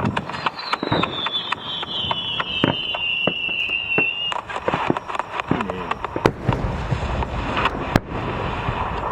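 Fireworks going off: a rapid run of sharp bangs and crackles, with a whistling tone that falls in pitch over the first four seconds.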